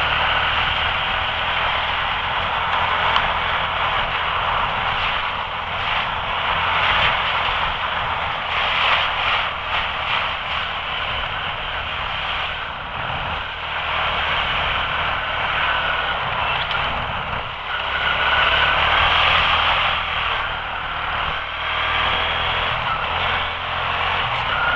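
Quad (ATV) engine running under way, heard through a steady rushing noise of wind and heavy rain on the mounted camera.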